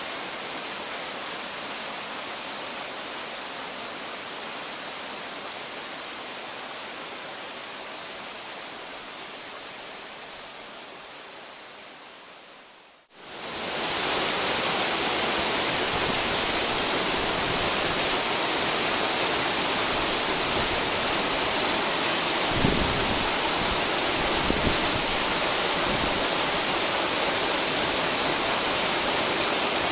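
Kakugami Fudo Falls, a tiered mountain waterfall, rushing with a steady roar of falling water. The sound fades away about thirteen seconds in and comes back louder a moment later, with a few brief low thumps a little after twenty seconds.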